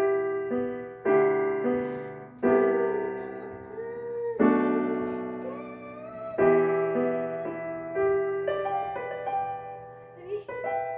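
Piano music: notes and chords struck one after another and left to ring and fade, with a gliding melody line in the middle, dying away near the end.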